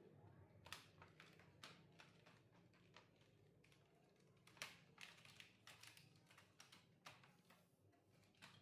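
Faint, irregular light clicks and taps of small hard objects being handled, about a dozen spread unevenly, the sharpest about halfway through, over a faint low hum.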